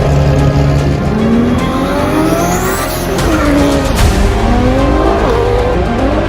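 Modified tuner cars accelerating hard, their engines revving up in repeated rising sweeps through the gears, with a sharp crack about four seconds in, over background music.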